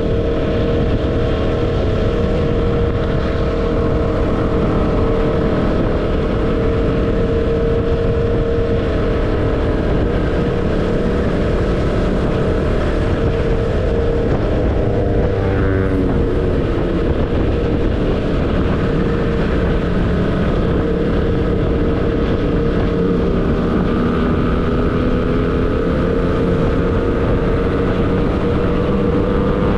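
Motorcycle engine running steadily on the move, with heavy wind rush on the microphone. The engine note dips and rises briefly about halfway through.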